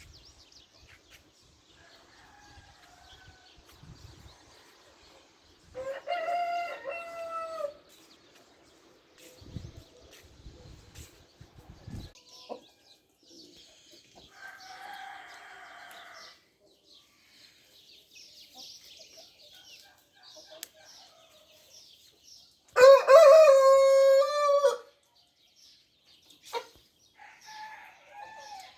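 Rooster crowing twice, about six seconds in and again, louder, about twenty-three seconds in, with fainter clucking and calls from other chickens in between.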